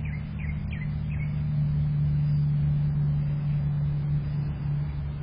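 A steady low motor hum, with a bird's short rising chirps, a few per second, over the first second or so.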